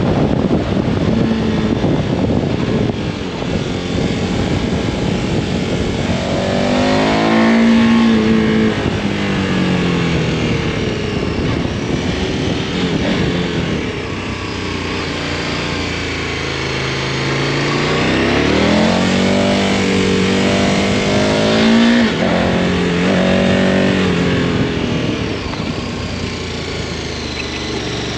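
KTM Super Adventure's V-twin engine pulling hard under acceleration, its pitch climbing and falling several times as the rider works through the gears, over steady wind rush.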